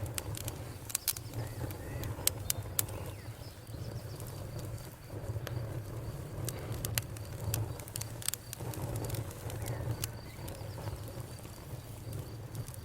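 Campfire burning: a steady low rumble of flames with irregular sharp crackles and pops, the loudest snaps in the first few seconds.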